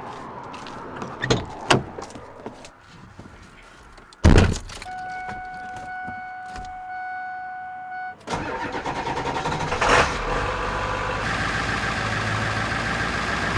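A few clicks and a heavy thud, then a steady electronic chime for about three seconds. After that the Ford 7.3 L Powerstroke V8 turbo-diesel cranks and catches about eight seconds in, and settles into a steady idle.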